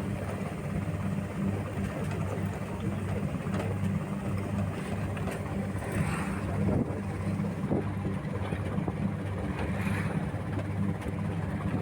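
A steady low engine drone with a rushing noise over it, swelling briefly a few times.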